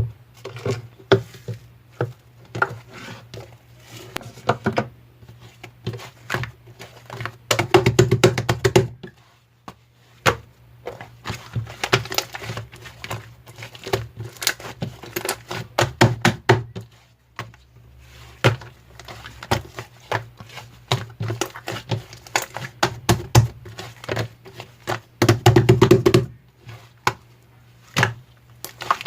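Hands squishing, pressing and poking slime: a dense run of wet clicks and small pops, with louder stretches of squishing about 8, 12, 16 and 25 seconds in.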